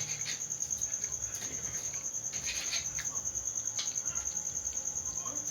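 A cricket chirping steadily in a high, rapid pulsing trill, with a few faint scattered clicks.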